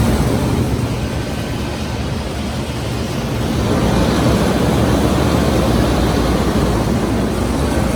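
Large Trane commercial air conditioning unit running: a steady rush of condenser fan noise over a low compressor hum.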